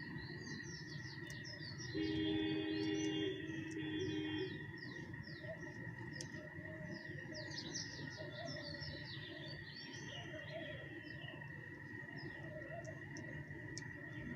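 Small birds chirping continuously, many quick falling chirps overlapping, over a steady high whine. About two seconds in, a louder low, steady horn-like tone sounds for about two seconds.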